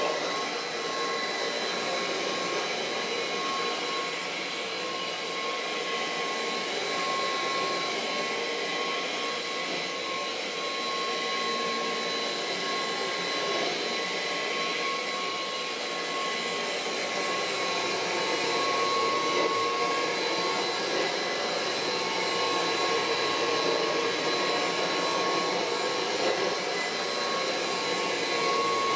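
Kirby Heritage II upright vacuum cleaner running steadily, its motor noise carrying a thin, high, steady whine, growing slightly louder about two-thirds of the way through.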